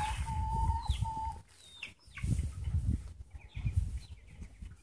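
A bird call held on one steady pitch for about a second, followed by a few short falling chirps, over a low rumble on the microphone.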